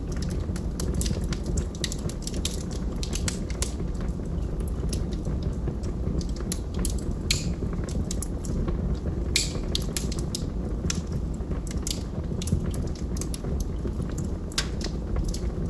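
Wood fire burning in a fireplace: constant irregular crackling over a steady low rumble of the flames, with a few louder pops around the middle and near the end.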